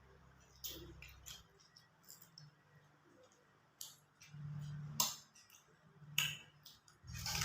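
A person eating: several sharp, irregular smacks and clicks of chewing, with short low mouth sounds between them.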